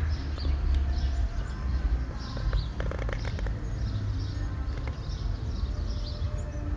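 Small birds chirping over and over, over a steady low rumble on the microphone, with a few light clicks about three seconds in.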